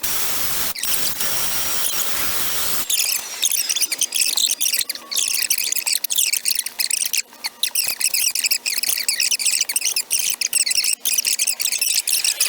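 Power grinding tool cutting into the ports of an aluminum intake manifold. A steady, full hiss lasts about three seconds, then gives way to a scratchy, high-pitched grinding with brief breaks as the tool is worked in and out.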